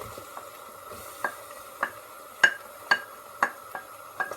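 Utensil stirring vegetables in a pot, knocking against the pot seven or so times, about twice a second from about a second in, over a faint steady sizzle of gentle frying.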